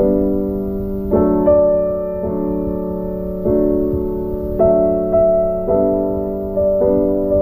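Background piano music: slow, sustained notes and chords struck about once a second, each ringing and fading.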